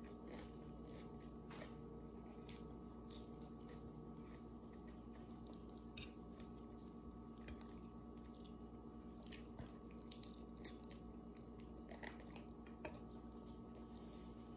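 Faint close-up chewing and eating sounds: scattered small clicks and smacks as food is chewed and picked from the plate by hand, over a steady low hum.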